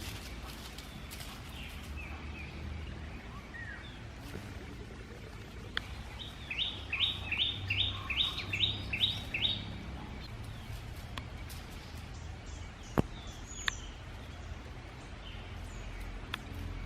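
A bird calling: a quick run of about eight high, downslurred notes, roughly two or three a second, a third of the way in, with a few faint chirps elsewhere, over a steady low outdoor rumble. A single sharp click about two thirds of the way in.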